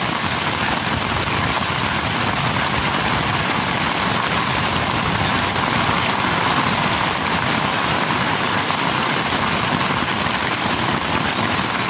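Heavy rain falling steadily on a tent, heard from inside the tent.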